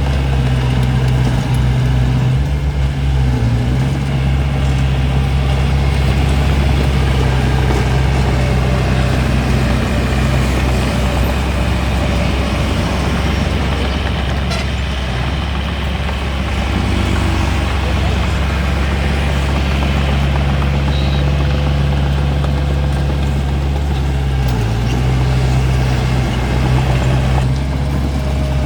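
Diesel engine of a Hitachi DX45M bulldozer running steadily as it works, with a few brief changes in engine note.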